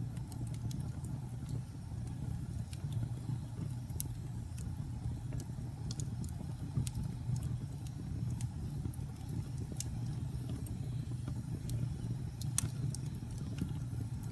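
Wood fire burning in a fireplace: a steady low rumble of the flames with scattered sharp crackles and pops, one of the loudest pops near the end.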